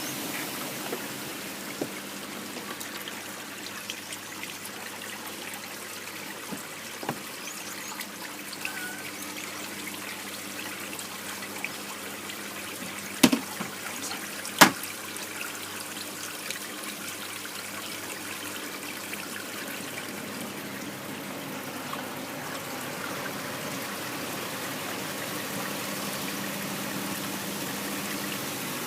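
Water trickling and pouring into a twin tub washing machine, steady throughout, with a faint steady hum under it. Two sharp clicks come about a second and a half apart midway.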